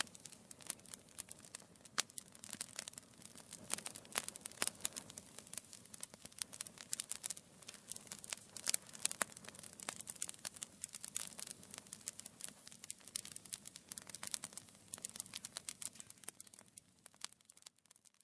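Wood fire burning in a fireplace, crackling with many irregular small snaps and pops over a soft hiss; it fades out near the end.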